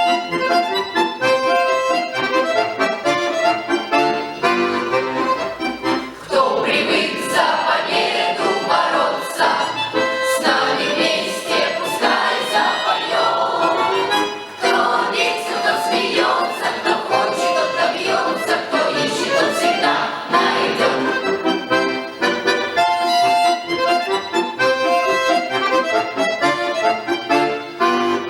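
Accordion playing a song accompaniment, with a children's choir singing over it through the middle of the passage; the accordion carries on alone at the start and near the end.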